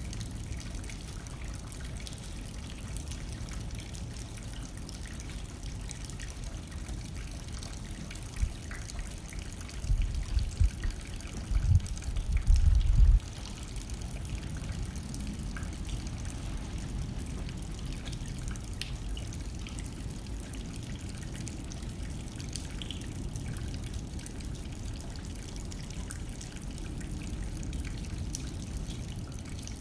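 Steady rain on a window glass with wind blowing, faint drop ticks scattered over a low rushing noise. About ten seconds in, a few seconds of louder low rumbling stand out as the loudest part.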